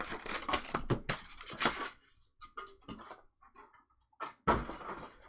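Trading-card pack wrappers tearing and crinkling for about two seconds, then scattered lighter rustles and clicks, with one more short crinkle near the end.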